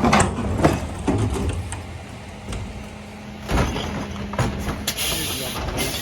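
Mercedes Econic refuse truck with a Faun Variopress body working a bin collection: clattering knocks, then a steady hum, a sharp thump about three and a half seconds in, and a high hiss near the end.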